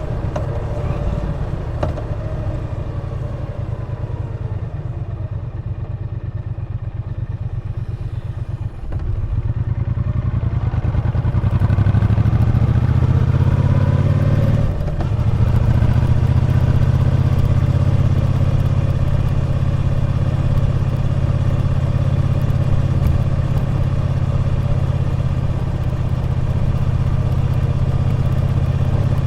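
Triumph Bonneville T120 parallel-twin engine running at low speed, then opening up about nine seconds in with a rising note as it accelerates. A brief dip near fifteen seconds in marks a gear change, after which it runs steadily at a higher, louder pull.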